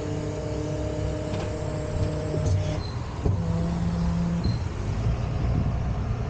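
Tow truck's engine running steadily, with a low rumble and held humming tones that change pitch a couple of times, and a few light clicks.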